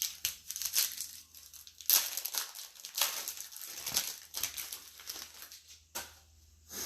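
Crinkling and rustling of plastic trading-card packaging as cards are handled and the next pack is opened, with irregular crackles that are loudest about two seconds in and stop about six seconds in.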